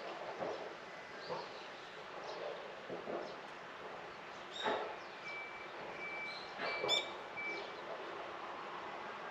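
Birds chirping and calling in a garden over a soft outdoor hiss, with two sharper calls and one long held whistled note in the middle.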